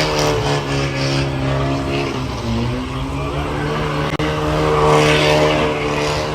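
Truck engine held at high revs with the tyres screeching in a burnout, its pitch wavering a little.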